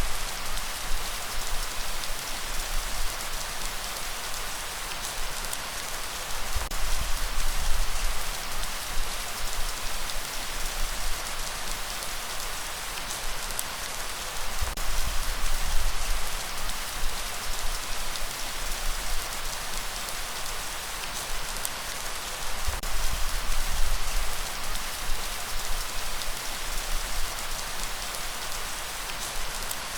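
Steady rain: an even hiss with scattered drop ticks, over a low rumble that swells and fades.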